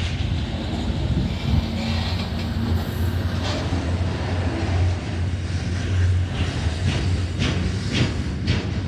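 Diesel freight locomotive passing close by with a steady low engine drone, followed by container wagons rolling past, their wheels clacking over the rail joints several times near the end.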